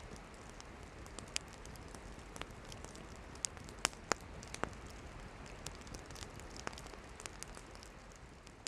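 Wood campfire burning: a steady hiss of flames with scattered sharp crackles and pops from the firewood, the loudest two close together a little before halfway. The sound starts to fade near the end.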